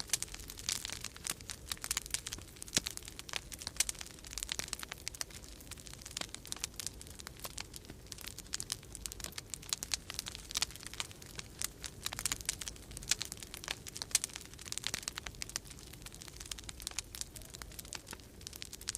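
Wood fire crackling in a fireplace, with dense irregular pops and snaps over a low steady rumble of storm wind.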